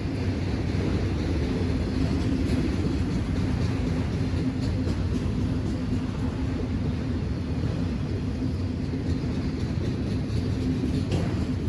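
Railroad train: a steady low rumble with a constant hum, and a few faint clicks near the middle and near the end.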